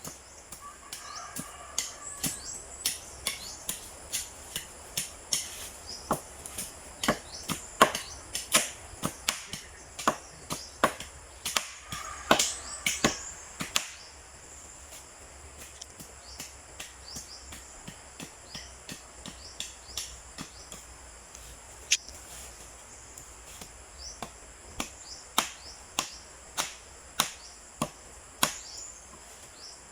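Repeated sharp chopping strikes on wood by hand, about one or two a second. They pause for several seconds in the middle, then start again. Crickets or other insects buzz steadily throughout.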